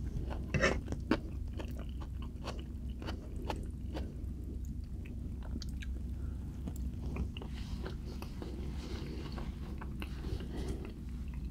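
Close-miked eating of cheesy enchiladas: chewing with sharp crunches from the crispy baked tortilla edges, the loudest two about half a second and a second in, then steadier chewing with small crackles.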